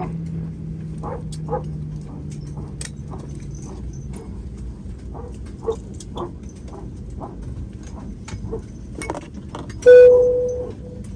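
Airliner cabin noise with scattered clicks and knocks. A low hum drops in pitch and fades over the first few seconds. About ten seconds in, a loud single ringing tone dies away over about a second.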